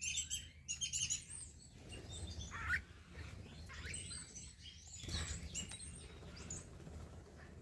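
Birds chirping and twittering: a quick run of sharp high chirps at the start, then scattered calls, including one rising call a few seconds in and a louder flurry about five seconds in, fading toward the end.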